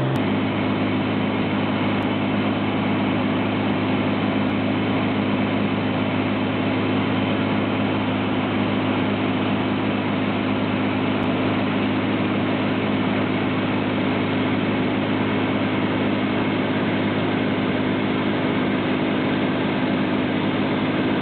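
Light aircraft's piston engine and propeller running steadily in cruise, heard from inside the cabin as an even drone with a low hum over rushing noise.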